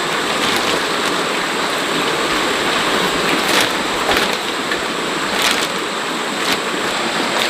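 Steady rain falling, an even hiss with a few louder taps of drops.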